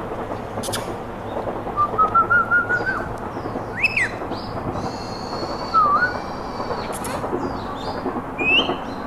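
Pet parrot whistling and chirping: a quick run of about six rising chirps about two seconds in, then single sharp whistled calls a few seconds apart, over a steady background hiss.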